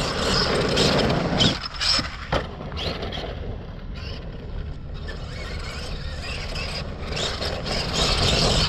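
Arrma Kraton 1/5-scale electric RC car with a brushless motor driving hard over rough, firm dirt: a rushing noise of tyres and drivetrain with a few sharp knocks. It is loudest about a second and a half in and again near the end.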